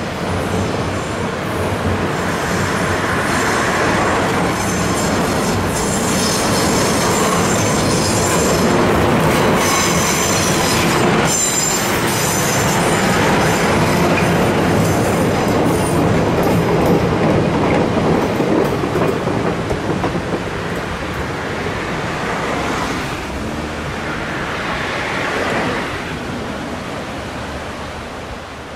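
The Okuizumo Orochi trolley train, a DE15 diesel locomotive with 12-series coaches, passes across a steel girder bridge. Its wheels rumble on the rails, and there is a high wheel squeal through the middle of the passage. The sound then fades away as the train leaves.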